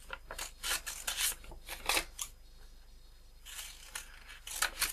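Scissors cutting through paper: a quick run of short snips, a pause about halfway, then paper rustling and a few more snips near the end.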